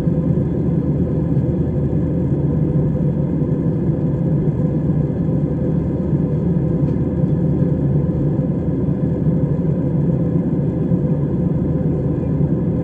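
Steady low drone of an airliner cabin: engine and airflow noise, with no change in pitch or level.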